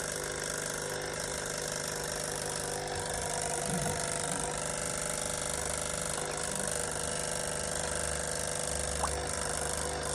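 A small machine running with a steady mechanical hum, unchanging throughout.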